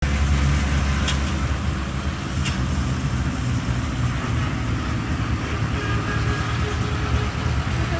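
Tractor engine running with a steady low rumble, with two short clicks about one and two and a half seconds in.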